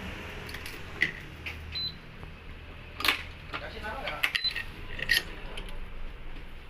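Several sharp clicks and short metallic taps from stringing a badminton racket on an electric stringing machine, as clamps and tools are handled and string is pulled through, over a low steady hum.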